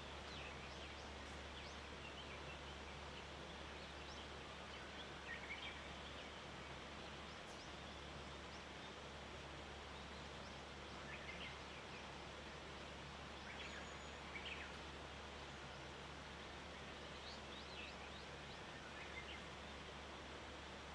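Faint early-morning mountain-forest ambience: scattered short, high chirps from small wild birds, including young birds, over a steady hiss and a low steady hum.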